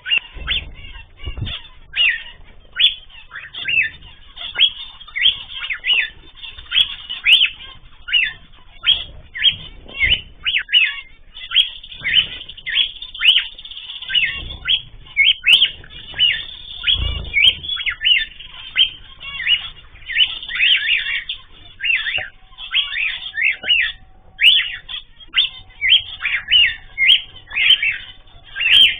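A flock of small pet cage birds chirping and calling without pause, many short falling chirps overlapping several times a second.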